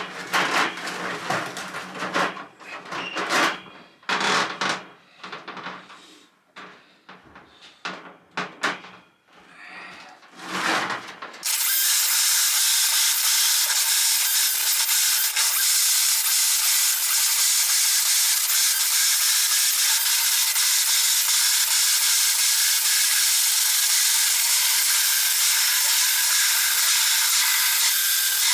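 Scraping and handling noises, then about eleven seconds in a drain-cleaning cable machine starts and runs steadily with a hissing whine as it feeds and spins its cable down a blocked main sewer line.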